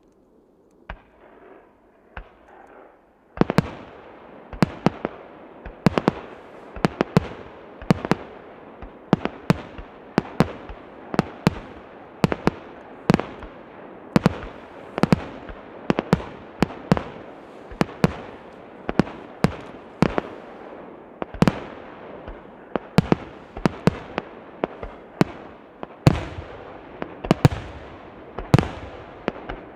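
Fireworks display: a couple of single bangs, then from about three seconds in a rapid barrage of shell bursts, roughly two a second, with crackling between them.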